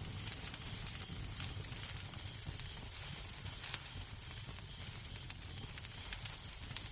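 Fireplace fire crackling: a steady hiss with frequent small pops and one sharper pop a little past halfway, over a low rumble.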